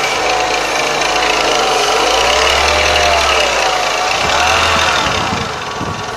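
Renault Megane 2's K4M 1.6 16-valve petrol engine revved up and back twice, then settling back toward idle near the end, with a constant metallic rattle from the timing-belt area that grows with revs. The owner cannot find the cause; unplugging the cam phaser solenoid made no difference.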